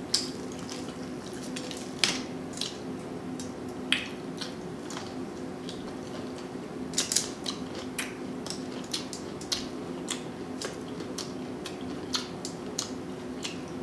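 Close-miked eating of crispy breaded chicken tenders: irregular crunches and wet mouth clicks while biting and chewing, with a busier run of crunching about seven seconds in. A steady low hum runs underneath.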